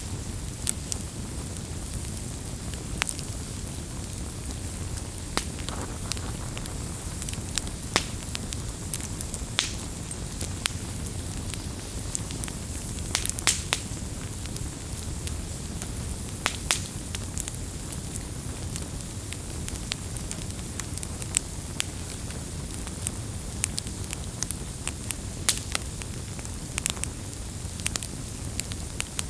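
Wood campfire burning, with a steady low rumble and hiss and frequent sharp crackles and pops at irregular intervals.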